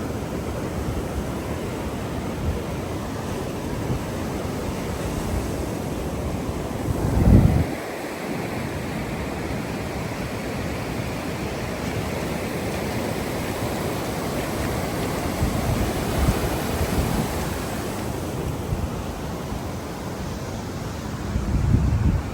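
Steady rushing outdoor noise with wind buffeting the microphone, a stronger gust about seven seconds in and another near the end.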